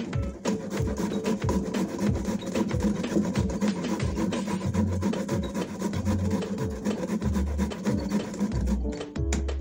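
Peeled cassava root being grated by hand on a stainless-steel hand grater into a metal pot: quick, repeated rasping strokes, with a short break near the end.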